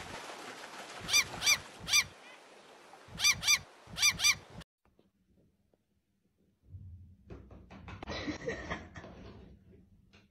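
A bird's short honking calls, each rising then falling in pitch, in quick groups of three, then two, then two. About two seconds of silence follow, then a fainter, noisy stretch.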